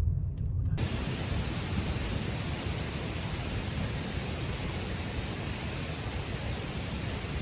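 Waterfall: a steady rush of falling water that cuts in abruptly about a second in.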